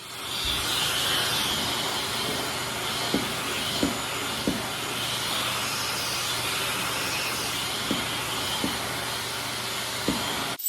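High-velocity dog grooming dryer (forced-air blower) running with a steady rushing hiss of air, with a few short soft thumps along the way.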